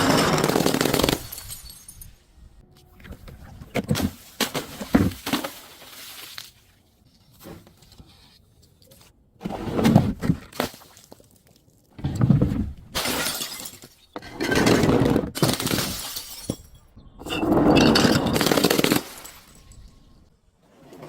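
Glass being broken and crushed: several loud bursts of crunching and shattering, one to two seconds each, with scattered sharp cracks of breaking glass between them.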